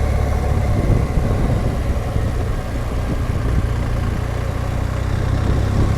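BMW R1200GS Adventure's boxer-twin engine running steadily while riding along.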